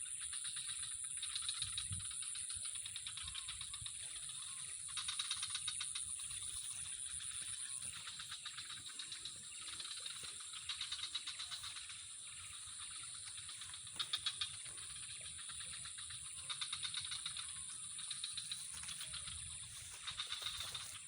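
Insects trilling: a steady high-pitched buzz with repeated rasping trills, each about a second long, coming every few seconds.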